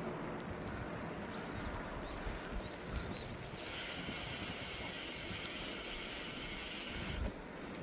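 A bird singing a quick run of about a dozen short high chirps, followed by a steady high hiss lasting about three and a half seconds that cuts off suddenly, over a low rumble of wind on the microphone.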